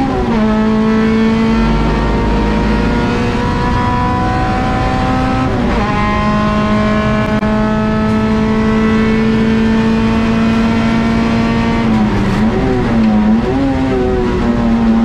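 Honda Integra race car's four-cylinder engine at full throttle, heard from inside the cabin. Its pitch climbs steadily, with quick drops for upshifts just after the start and about six seconds in. Around twelve seconds in, under braking with the car slowing, it drops and wavers through downshifts, then holds steady.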